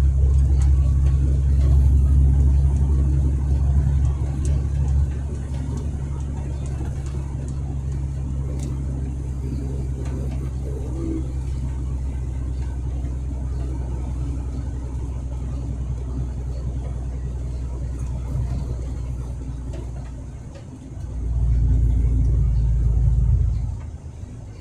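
Truck engine and road noise heard from inside the cab: a low, steady rumble, louder for the first few seconds, briefly dipping about twenty seconds in, then swelling again for a couple of seconds before falling away near the end.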